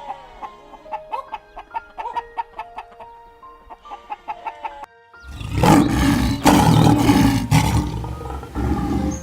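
Light music of short plucked notes, then about five seconds in a loud, rough animal roar that lasts about four seconds.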